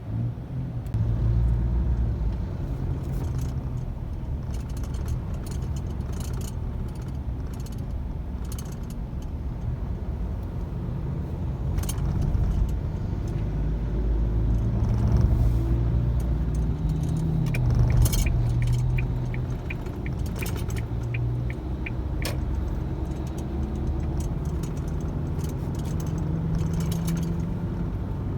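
Car running through city traffic: steady low road and engine rumble, with scattered small clicks and rattles. Past the middle comes a run of quick, even ticks, about three a second, lasting a few seconds.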